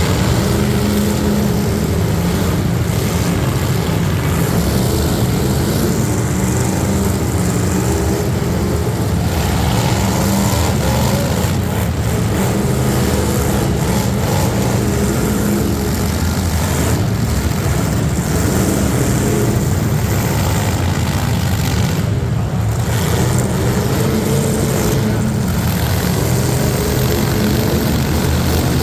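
Loud truck engine running without a break, its pitch wavering up and down as the throttle changes.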